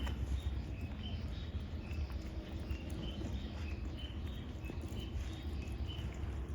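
Wildlife chirping: a regular series of short high chirps, about two a second and alternating between two pitches, over a steady low rumble.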